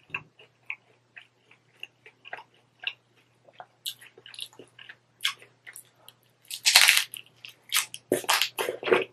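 Close-miked chewing and biting of crispy hard taco shell: a run of small crunches, then louder crunching bites near the end.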